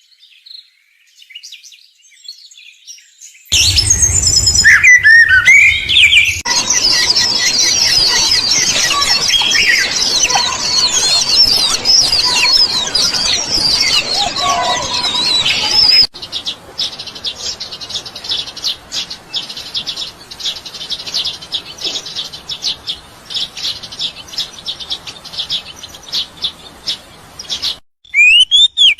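Several birds chirping in a string of separate recordings that change abruptly: faint chirps at first, then a dense chorus of many overlapping high chirps, then a fast series of short, sharp chips.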